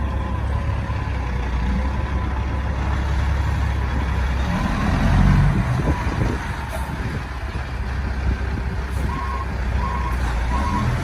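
Large truck engine running with a steady low rumble. A reversing alarm starts beeping about nine seconds in, about two beeps a second.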